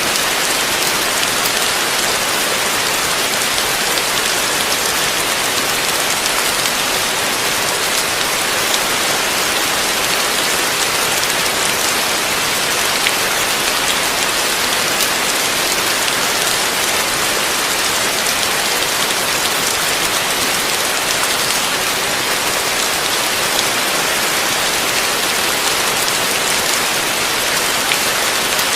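Heavy rain falling steadily, a dense even hiss with fine drop ticks throughout.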